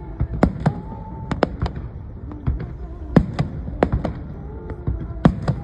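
Aerial fireworks bursting, a rapid irregular run of sharp bangs and crackling pops over a low rumble.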